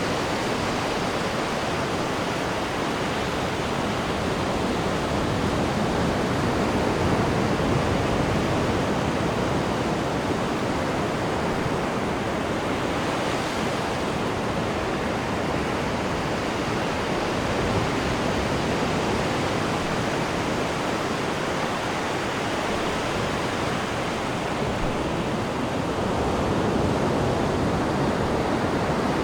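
Sea water rushing and churning in the wake behind a cruise ship's stern: a steady, even rush that swells a little now and then.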